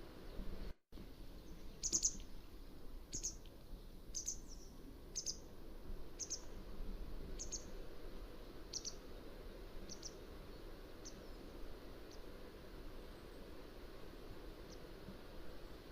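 Mountain wagtail calling: a series of short, high, sharp notes about one a second that grow gradually fainter, over a steady low background hiss. A brief dropout to silence comes just under a second in.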